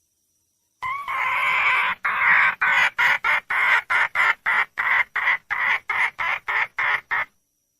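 Junglefowl hen calling to attract a male: one long call, then a fast run of short clucking notes at about three a second that stops suddenly.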